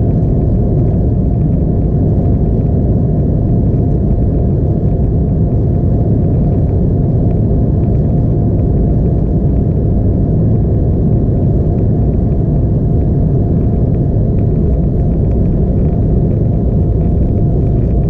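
Steady cabin rumble of an Embraer E175 airliner, its engines and the airflow heard from inside the passenger cabin, deep and even with no change.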